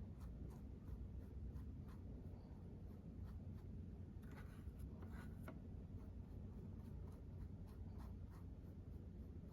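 Faint, light scratching strokes of makeup being applied to a mannequin, repeating about two to three times a second with a quicker flurry around the middle, over a steady low hum.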